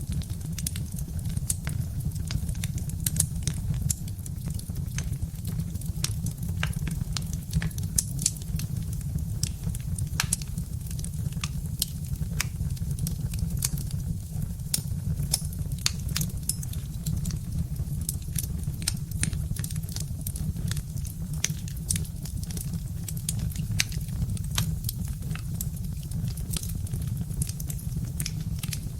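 Birch-log fire crackling: many sharp, irregular pops and snaps over a steady low rumble.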